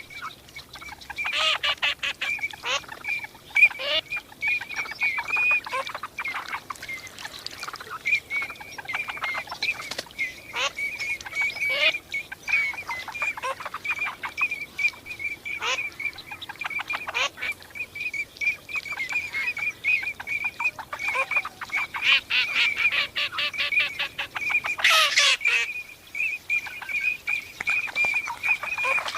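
Eurasian teal calling without pause: many high, short whistled calls crowding together, with fast runs of calls, the busiest a little after the middle and toward the end.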